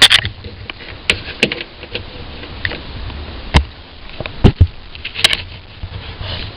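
Irregular knocks and clicks, about a dozen, some sharp and loud, over a low steady background hum, like objects being handled and moved in a small enclosed space.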